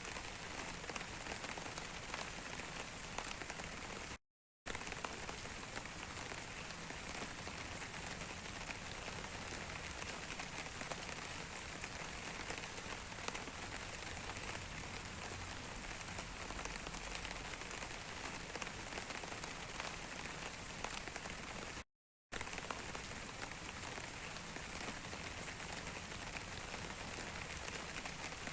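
Steady rain falling, a dense patter of small drop impacts over an even hiss. The sound cuts out completely twice for about half a second, around four seconds in and again around twenty-two seconds in.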